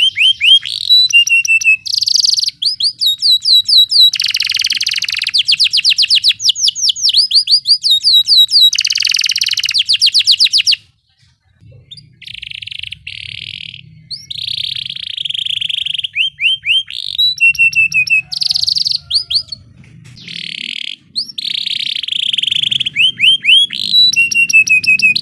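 Domestic canary singing fast rolling trills: long runs of rapidly repeated high sweeping notes alternating with harsh, buzzy rattling phrases, broken by a short pause a little before the middle.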